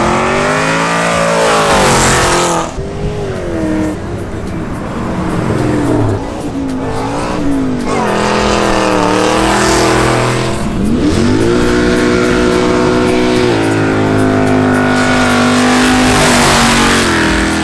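Car engines revving and accelerating as several cars drive off one after another, the engine notes repeatedly rising and falling. In the second half the engines hold steadier notes for a few seconds at a time.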